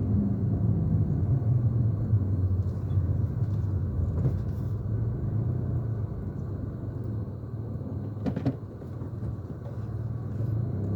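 Mitsubishi Mirage being driven on a road test, a steady low engine and road rumble that slowly eases off, with a brief knock about eight seconds in. The engine runs without sputtering after its fuel-pump replacement and fuel-line bleeding.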